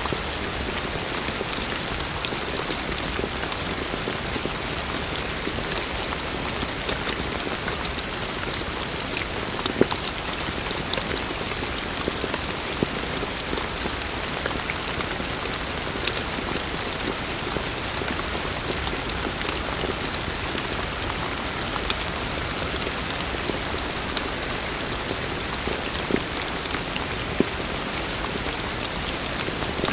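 Heavy rain falling steadily, a dense hiss of drops with sharper individual drop hits now and then, the loudest a few seconds apart.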